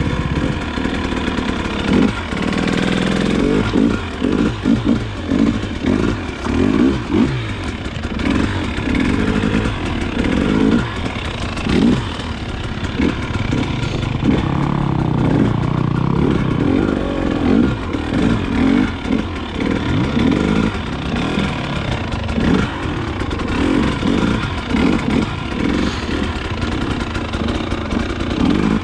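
Dirt bike engine being ridden, revved up and down again and again with the throttle, its pitch rising and falling repeatedly.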